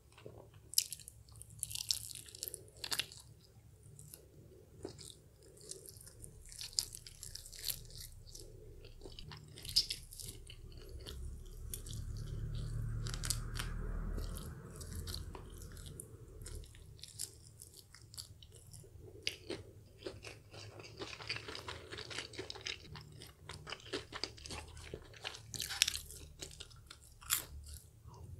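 Close-miked eating of crispy fried chicken: the crackle and crunch of the fried coating being bitten and chewed, in many small sharp crackles. A low rumble swells about twelve seconds in and fades a few seconds later.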